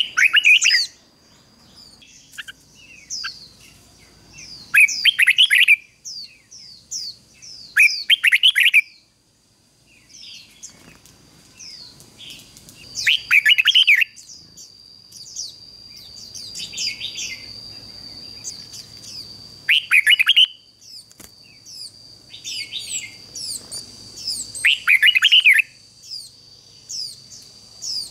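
Red-whiskered bulbul singing loud bursts of quick, jumbled phrases every few seconds, with thinner high chirps in between. A steady thin high tone runs underneath throughout.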